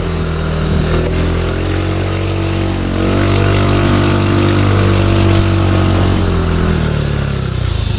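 Motorcycle engine running steadily under way, with road and wind noise; it gets a little louder about three seconds in, and its note drops near the end.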